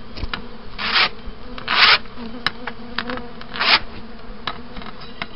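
Honeybees buzzing steadily around an opened hive, with a few rough scraping strokes as the hive's floor is cleaned of dead bees and debris.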